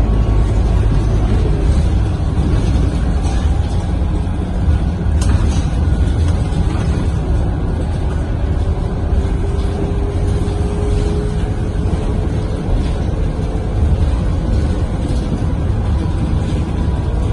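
Scania K230UB city bus's five-cylinder diesel engine and drivetrain heard from inside the moving bus: a steady low rumble with a faint whine slowly rising in pitch, and a single sharp click about five seconds in.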